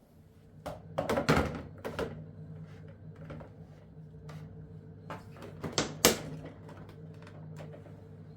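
Household clicks and knocks of objects being handled, loudest in a cluster about a second in and a sharp one around six seconds, over a steady low hum.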